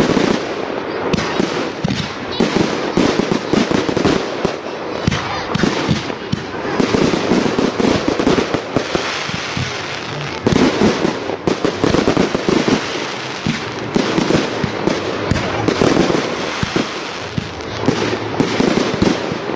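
Fireworks display firing a dense barrage: launches and bursts follow so closely that they overlap, mixed with crackling, with no let-up.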